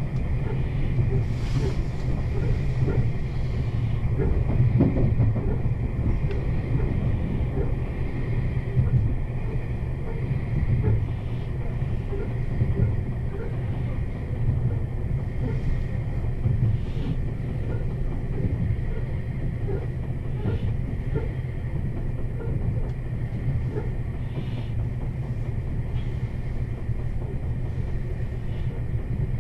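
Meitetsu 1200 series electric train running, heard from inside the carriage: a steady low rumble of wheels on the track, with scattered clicks as the wheels pass over rail joints.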